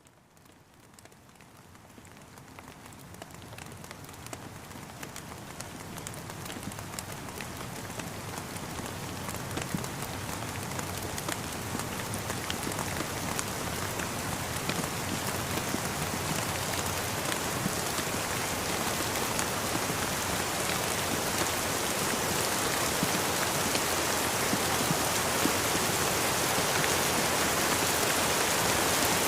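Rain falling steadily, with many small drop taps through a dense hiss. It fades in from silence and grows gradually louder, levelling off near the end.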